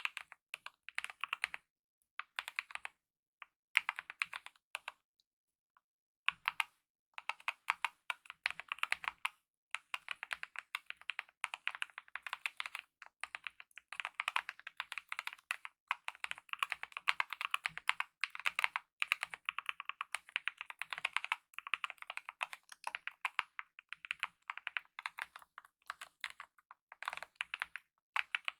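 Continuous typing on a mechanical keyboard with lubed optical red (linear) switches and DSA-profile keycaps: rapid runs of keystroke clacks with short pauses, one of them about two seconds long, a little after the first quarter.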